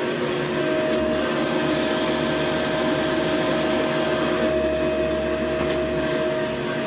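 Eureka 2052 bagged upright vacuum cleaner running steadily: an even rush of air with a steady motor whine over it.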